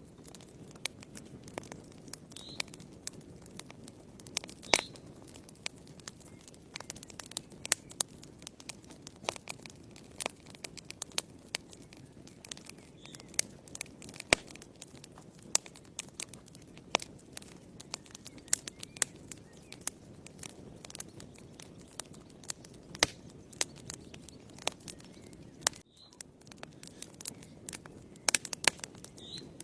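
Fire burning in a fireplace, crackling with frequent irregular sharp pops over a low steady rush of flame.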